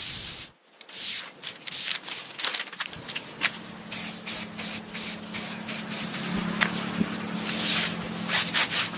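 Spray painting: repeated short hisses of paint spraying onto the bike frame, some brief and some held longer, over a steady low hum that sets in about three seconds in.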